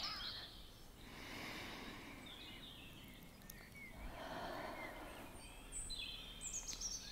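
Faint birdsong: small birds give short, quick chirps and trills, more of them near the end, over a soft background hiss.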